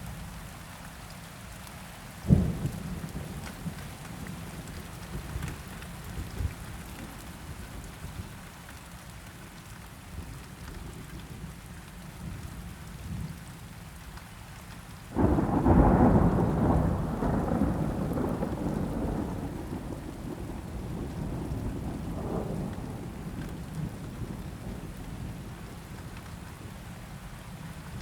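Steady rain with thunder. A short, sharp thunderclap comes about two seconds in. About halfway through, a loud roll of thunder starts suddenly and rumbles on, fading over several seconds.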